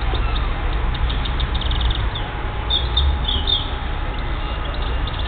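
Small birds chirping in quick runs of short high notes, loudest about three seconds in, over a steady low rumble.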